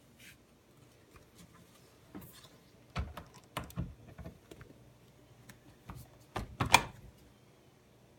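Several short knocks and clicks of household containers and kitchen storage being handled, the loudest cluster coming near the end.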